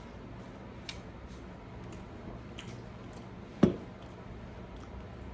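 Quiet chewing with a few small mouth clicks over the steady low hum of a De'Longhi Pinguino portable air conditioner, then a single short knock about three and a half seconds in.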